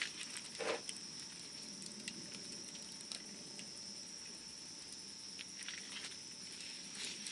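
Wood campfire crackling, with scattered small snaps and pops and one louder pop just under a second in. A steady high-pitched trill runs underneath.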